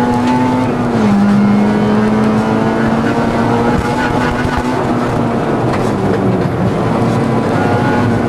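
Rally car engine heard from inside the cabin, pulling hard at high revs. Its pitch drops suddenly about a second in, as at an upshift, then climbs slowly and falls away over the last couple of seconds as the driver eases off.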